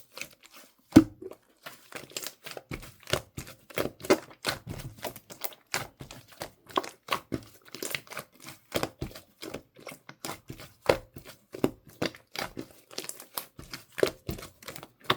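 Slime being squeezed and poked by hand, giving a dense, irregular run of sharp clicks and pops, several a second, with one louder pop about a second in.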